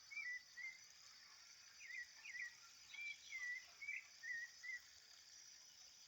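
A sabiá (thrush) singing short whistled notes in phrases: a brief group at the start, then after about a second's pause a longer run of notes. A steady high insect drone runs underneath.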